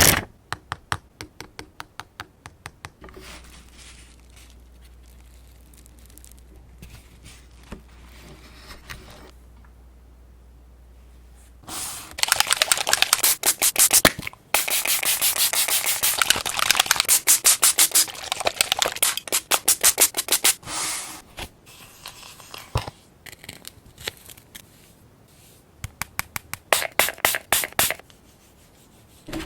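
Hand papercraft sounds: runs of rapid, scratchy strokes on paper, as paper and stickers are rubbed, scraped or cut. A short run opens, a quieter lull follows, then a dense run of about nine seconds starts some twelve seconds in, and a brief run comes near the end.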